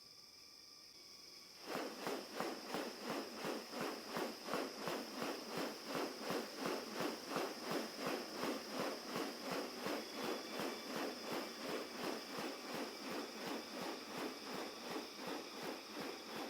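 Forest insects: a steady high-pitched buzz with a rhythmic pulsing chorus of about three beats a second that starts about two seconds in.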